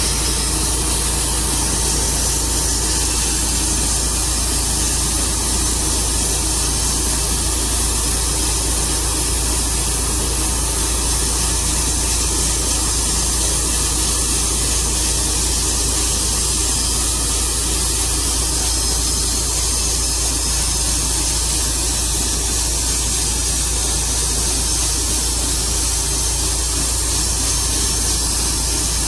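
Portable sawmill running steadily through a cut in a walnut log: a constant engine hum under a loud, even hiss, with no break or change.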